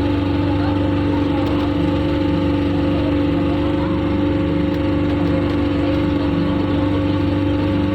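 An engine running steadily at a constant speed: an even drone with a fixed low pitch and no revving.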